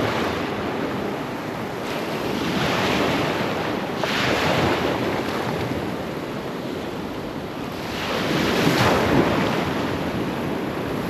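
Ocean surf breaking and washing in, swelling louder every few seconds, with wind buffeting the microphone.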